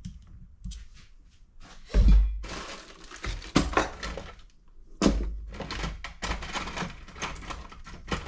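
Knocks and clatter of hand tools and parts while a dirt-bike carburetor is taken apart, with two heavy thumps about two and five seconds in.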